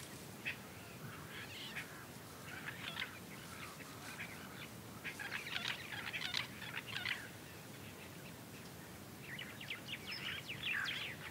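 Birds chirping and calling in scattered bursts of quick, high notes over a faint steady hiss.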